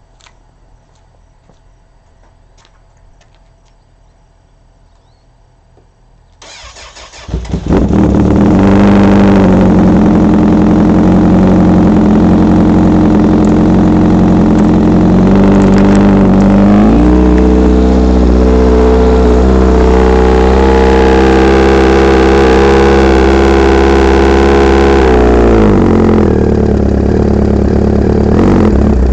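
Suzuki Katana 600 (GSX600F) inline-four motorcycle engine with a custom GSX-R exhaust being started. After about six quiet seconds the starter cranks briefly and the engine catches and runs loud and steady. About ten seconds later it is held at higher revs for some eight seconds, drops back, then rises again at the very end.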